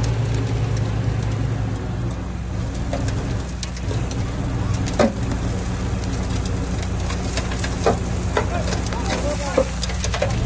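Heavy diesel engine of earthmoving machinery running steadily under load, with a few sharp metallic clanks.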